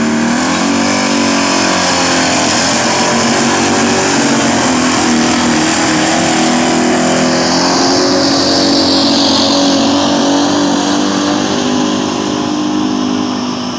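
Gasoline street-class pickup truck engine running at high revs under heavy load, pulling a sled. The pitch climbs about half a second in and then holds steady. A high hiss fades during the second half, and the engine eases off near the end.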